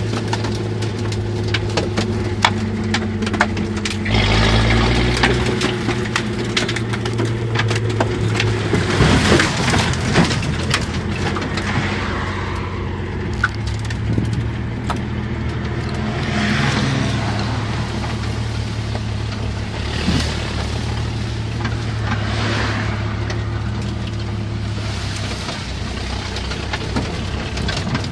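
1977 Jeep CJ5's engine running at low, fairly steady revs while crawling off-road, the pitch shifting a few times, with many sharp knocks and crackles over it throughout.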